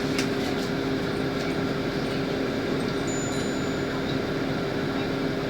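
Inside a LiAZ 5292 city bus under way: a steady hum from the engine and drivetrain with road noise, a few faint rattles near the start.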